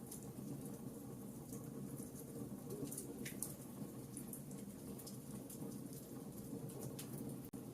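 Campfire burning with a steady low rush from the flames and sparse sharp crackles and pops from the wood.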